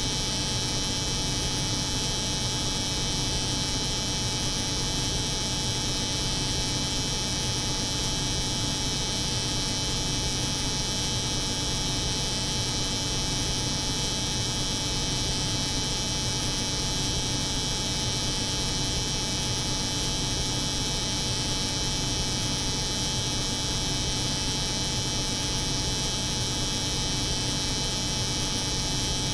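Cold-room refrigeration hum layered with the buzz of an electric hair clipper, running steadily and unchanging throughout.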